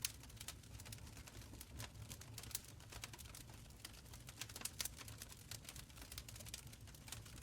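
Open fire crackling in a fireplace: irregular sharp pops and snaps, several a second, over a faint low rumble of the flames.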